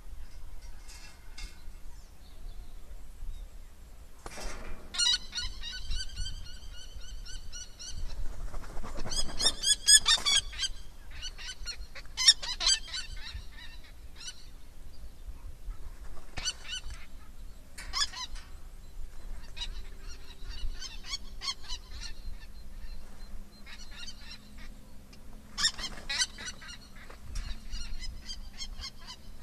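Birds calling: fast series of repeated ringing notes, loudest about a third of the way in, then shorter bursts of calls scattered through the rest.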